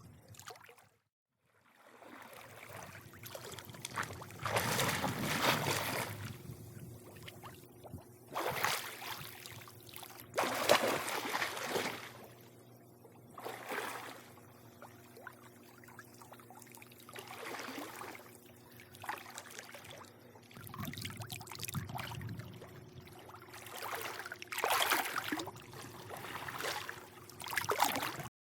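Swimming-pool water lapping and sloshing in irregular swells every few seconds, over a faint steady low hum. The sound drops out briefly about a second in and cuts off abruptly near the end.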